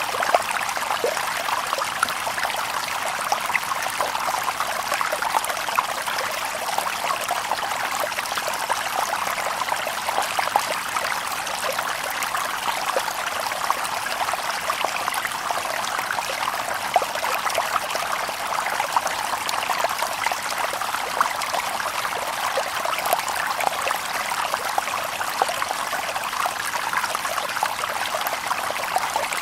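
Shallow stream babbling and trickling over stones, a steady splashing rush with many small bright droplet sounds and no birds.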